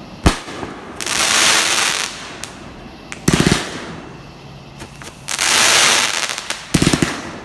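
Fireworks going off: a sharp bang, then about a second of crackling hiss and a quick run of pops, followed by another crackling hiss and another run of pops near the end.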